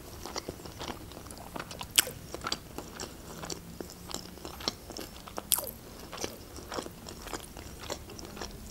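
Close-miked chewing of a sushi roll topped with chuka seaweed salad: wet, crunchy bites and mouth clicks, with two louder crunches about two seconds and five and a half seconds in.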